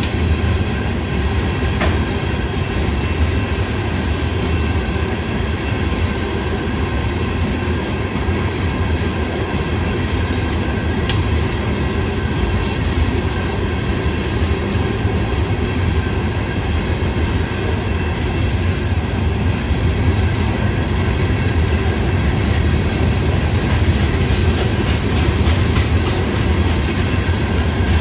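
Freight train of open-top aggregate hopper cars rolling past: a steady rumble and clatter of steel wheels on the rails.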